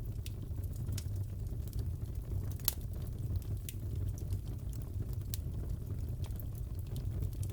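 Fireplace crackling: scattered sharp pops and snaps over a steady low rumble of burning, with one louder pop about two and a half seconds in.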